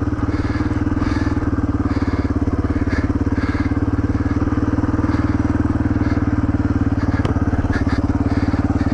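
Yamaha TTR230 dirt bike's single-cylinder four-stroke engine running at a steady throttle under way, its even firing pulses holding one pitch throughout.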